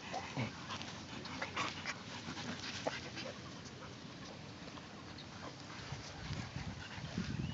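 A dog panting, with scattered small clicks and scuffles and a few low thumps near the end.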